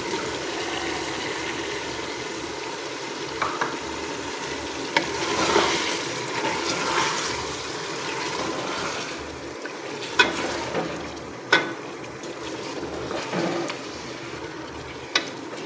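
Beef and garlic-ginger paste frying in a pressure cooker, sizzling steadily as chopped tomatoes go in and are stirred. A few sharp clicks of the spatula against the pot.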